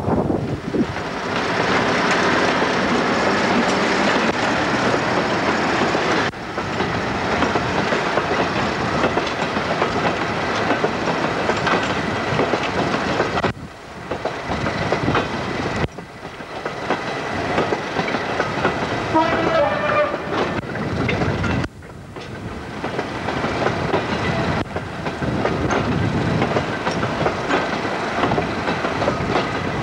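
Class 56 diesel-electric locomotive with its Ruston-Paxman V16 engine working past, followed by a long rake of loaded coal hopper wagons rolling by with wheels clacking over the rail joints. The sound cuts off abruptly several times and resumes.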